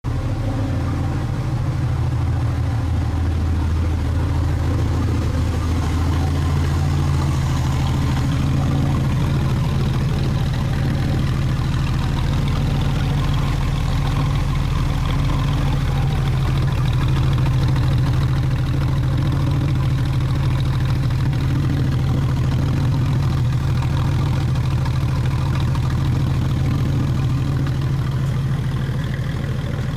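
Porsche 993 Carrera's air-cooled 3.6-litre flat-six idling steadily through a homemade exhaust with custom mufflers, with a slight change in its low note about six seconds in.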